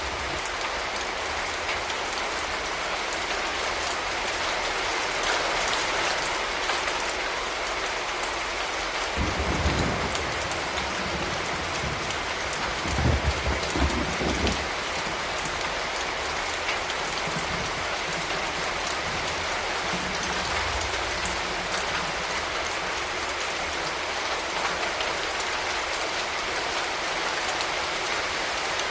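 Steady rain falling on hard surfaces in a city. A low thump comes about a third of the way in, and a short cluster of low thumps follows about halfway through.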